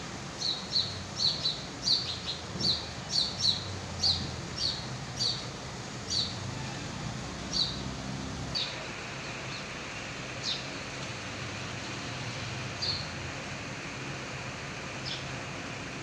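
A bird chirping: short high chirps, about two a second for the first six seconds, then fewer and further apart, the last ones faint.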